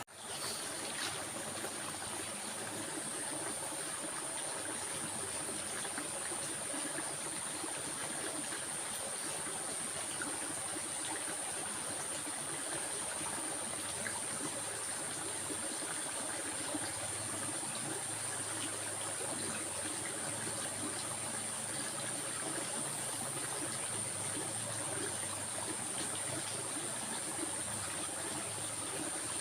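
Stream water flowing and trickling steadily, with a thin steady high-pitched tone above it. The sound drops out for an instant at the very start and comes straight back.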